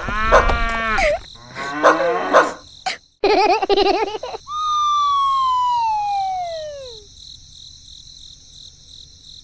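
Cartoon-style sound effects: squeaky, warbling voice-like calls, then a long falling whistle glide about halfway through.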